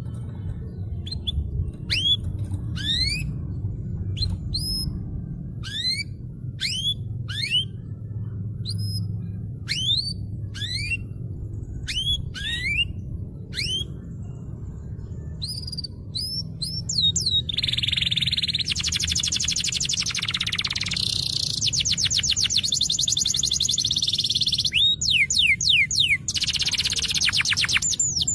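Canary singing. It starts with a run of separate rising whistled notes about twice a second, then breaks into fast, dense rattling trills after about seventeen seconds, with more rising notes and another trill near the end. A steady low hum runs underneath.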